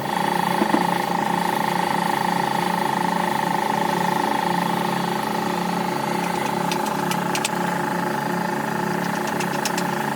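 A machine running steadily with a constant hum, and a few sharp clicks about two-thirds of the way in and again near the end.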